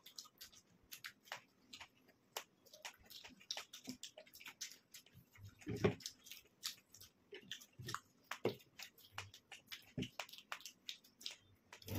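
Two people chewing mouthfuls of veg burger: faint, irregular wet mouth clicks and smacks, with a louder bite or mouth sound about six seconds in.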